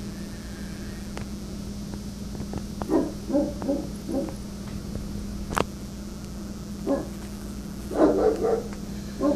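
Rottweiler barking in bursts of several deep barks, with a single bark between the bursts. A steady low hum runs underneath, and there is one sharp click midway.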